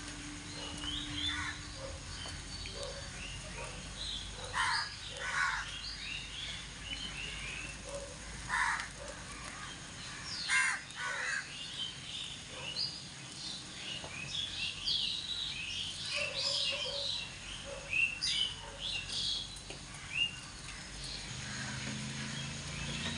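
Birds chirping and calling: many short high chirps scattered throughout, with a few louder, harsher calls.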